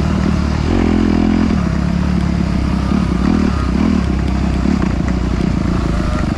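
Off-road motorcycle engine running under a rider, its revs rising and falling several times as the throttle is worked.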